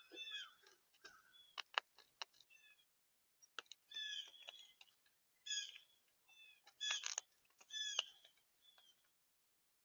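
Small birds calling at a feeder: groups of short, repeated, harsh notes, with a few sharp taps about two seconds in. The sound cuts off abruptly near the end.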